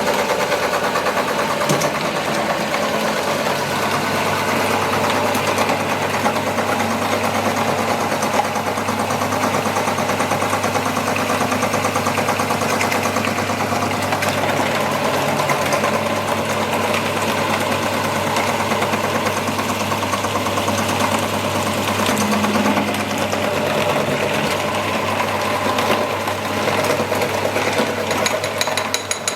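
Electric meat grinder running steadily, its motor giving a constant mechanical hum.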